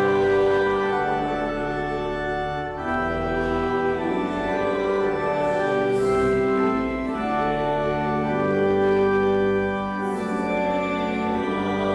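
Church organ playing a hymn tune in sustained chords that change every second or two.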